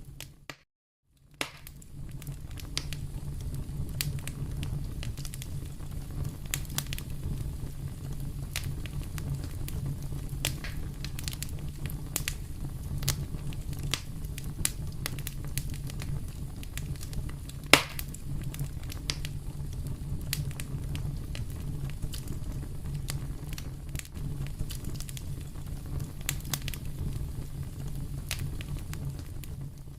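Wood fire burning in a fireplace, crackling with frequent sharp pops over a steady low rumble. One pop a little past halfway is much louder than the rest. The sound drops out for about a second near the start.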